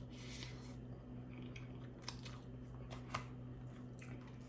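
A person chewing a mouthful of palabok rice noodles, with soft wet mouth clicks; two sharper clicks come about two and three seconds in.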